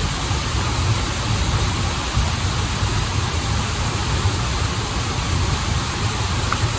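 Waterfall and stream water rushing steadily, a deep low rumble under an even hiss.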